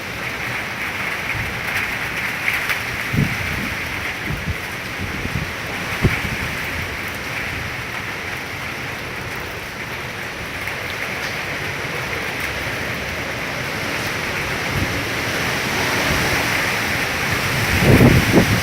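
Heavy storm rain pouring steadily in a dense hiss, with a few short low thumps, and louder low rumbles near the end.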